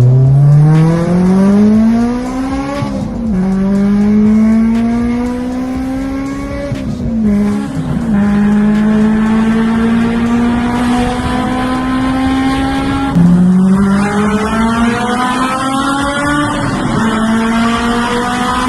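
Honda car's engine pulling hard through the gears, its note climbing steadily and dropping sharply at each upshift: about three seconds in, again near the middle, and about two-thirds of the way through.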